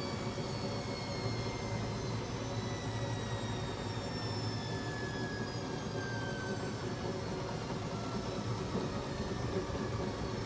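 Beko WMB 71643 PTE washing machine running, its brushed motor giving a steady whir with a thin whine that slowly falls in pitch.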